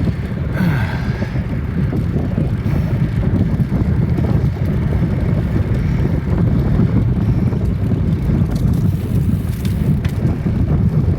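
Steady, loud rumble of wind on the microphone of a phone filming from a bicycle ridden at speed.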